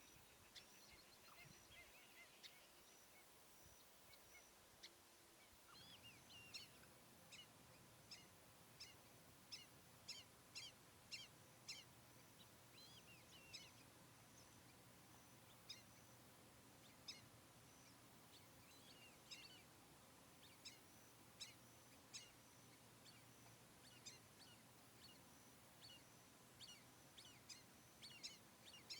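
Faint bird calls: many short, high chirps, a few at first and then frequent from about six seconds in.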